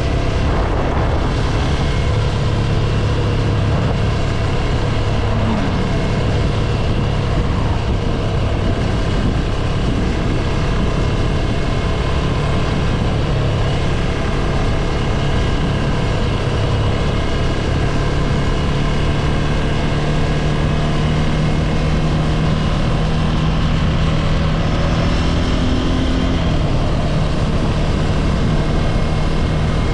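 Ducati Scrambler 803's air-cooled L-twin engine running steadily while under way, its pitch drifting slowly, then stepping down about 26 seconds in.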